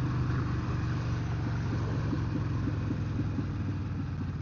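Harley-Davidson Sportster 883's air-cooled V-twin engine running steadily at low revs, gradually getting quieter.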